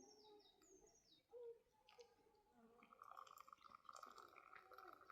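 Faint bird calls: two quick descending chirps in the first second, over faint wavering lower tones, with a faint steady high tone joining about three seconds in.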